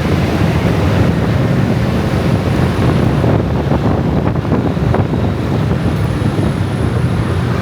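Dense motor-scooter traffic: many small engines running together in a steady, loud din.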